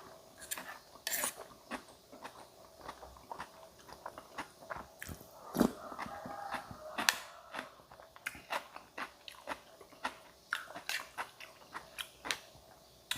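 Close-up eating sounds: a person chewing and biting into crunchy food, with many short wet clicks and crunches.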